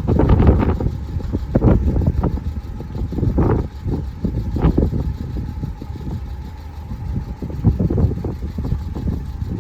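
Road traffic at a level crossing: a steady low rumble of passing vehicles with irregular surges as they go by.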